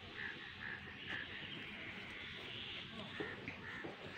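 Faint outdoor ambience with scattered short bird calls, several brief chirps or caws spread through the few seconds.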